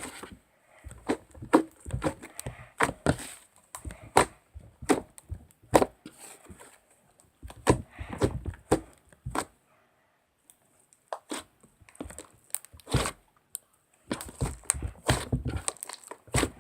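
A run of irregular knocks, taps and clicks, several a second, with a pause of about a second and a half a little past the middle.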